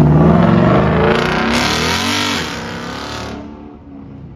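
Ford Mustang accelerating hard away, its engine revving loud with a swing in pitch partway through, then fading as the car drives off down the street.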